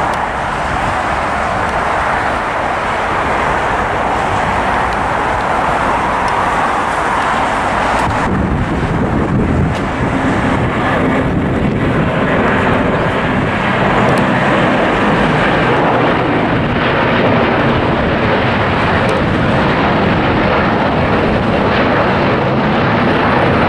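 Jet airliner's engines at takeoff power as it climbs away after lift-off, a steady loud roar. A deeper low rumble fills in about eight seconds in.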